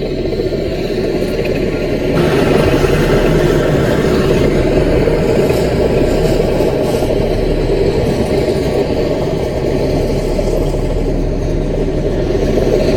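CAT mini bulldozer's diesel engine running steadily under load. It gets louder and harsher about two seconds in and stays up as the machine works.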